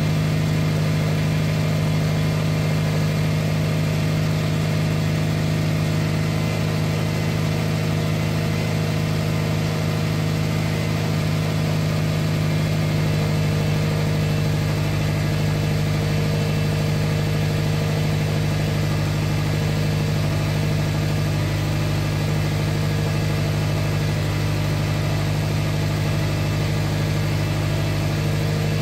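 Subaru Forester XT's turbocharged flat-four engine idling steadily on its first run after a swap to a larger Blouch 20G-XT turbo.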